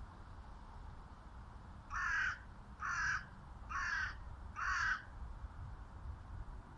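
A bird calling four times, about a second apart, over a steady low rumble.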